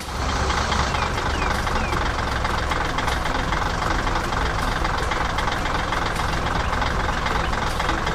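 Engine of a heavy construction vehicle running steadily with a low rumble, cutting in abruptly at the start.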